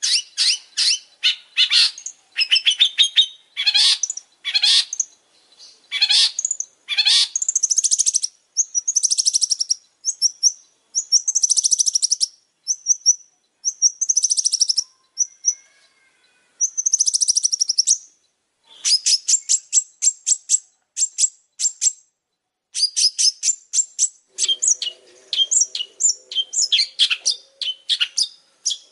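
Long-tailed shrike (pentet) singing: rapid runs of high chattering and trilled notes in bursts, with short pauses between them.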